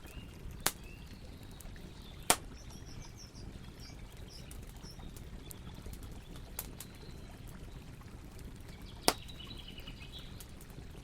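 Campfire burning with a steady low rush, with three sharp pops of the burning wood (one under a second in, one after about two seconds, one near the end) and a fainter crackle between. Small birds chirp faintly in the background.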